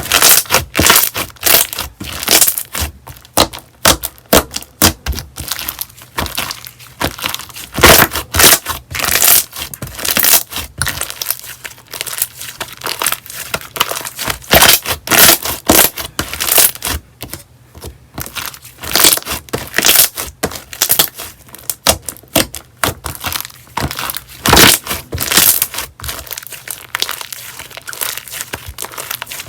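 Slime being squished, stretched and pressed by hand, giving a continuous run of irregular crackles, pops and crunchy clicks.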